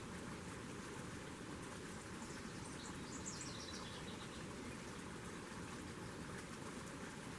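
A bird calls a short run of high notes that step downward, about two to four seconds in, over a steady outdoor background hiss.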